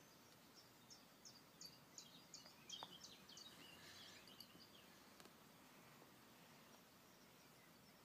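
Faint bird chirps played through a phone's speaker from a wildlife video: a quick run of short, high chirps, about three a second, through the first half.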